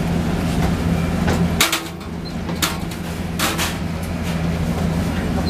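Cabin sound of a JR West 117-series electric train pulling into a station: a steady low hum that drops off about a second and a half in and comes back a second later, with several sharp clunks over the next two seconds.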